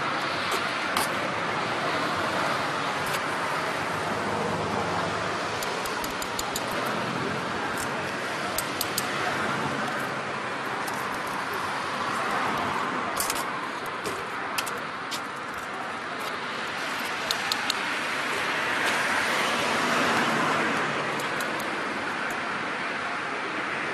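Steady road traffic noise from passing vehicles, swelling and easing as cars go by, with scattered light clicks and taps.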